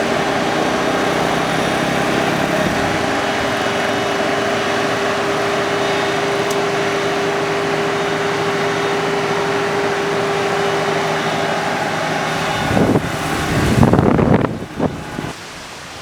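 Kubota combine harvester's diesel engine running steadily, with a steady whine over it. About thirteen seconds in, wind buffets the microphone and the engine sound then drops away.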